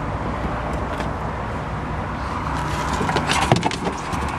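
Steady outdoor background noise, with a quick run of sharp clicks and light knocks about three seconds in, as something is handled.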